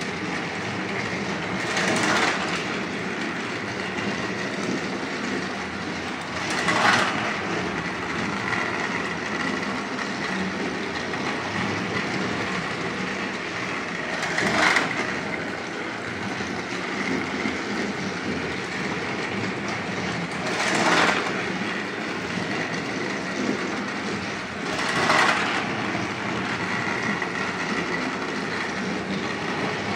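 Battery-powered Thomas & Friends toy trains running on their track: a steady motor whir and wheel rattle, with a louder clatter five times, every few seconds.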